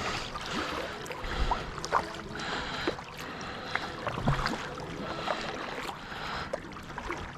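Water splashing and gurgling as a pedal-driven fishing kayak moves along, with scattered light knocks and clicks.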